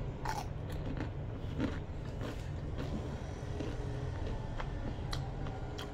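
Close-up chewing and crunching of crispy fried chicken skin, with a handful of sharp crunches scattered through, over a steady low background hum.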